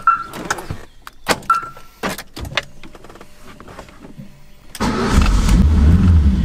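Keys clicking and jangling, with two short electronic beeps from the key fob, then about five seconds in the Ford Escort RS Turbo Series 1's turbocharged 1.6-litre four-cylinder engine is started: it catches at once and runs loud and steady at a fast idle.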